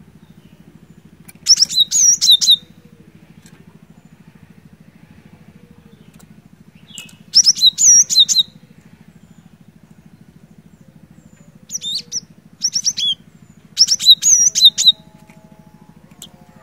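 Cinereous tit (glatik batu) singing in four loud bursts of rapidly repeated high notes, each note falling in pitch. A steady low hum runs underneath.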